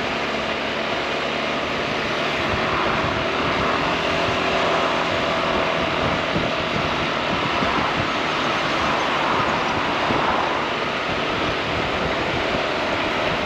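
Honda ADV 350 scooter under way: a steady rush of wind and road noise on the rider's microphone, with the engine's faint hum underneath and some low buffeting.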